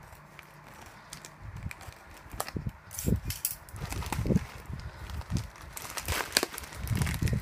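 A package being handled: irregular soft bumps and taps, with crinkling of plastic packaging about six seconds in.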